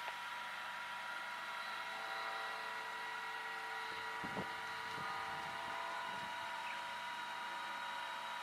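Radio-controlled aerobatic model plane's motor heard in flight as a steady, even-pitched drone, with brief wind buffeting on the microphone about four seconds in.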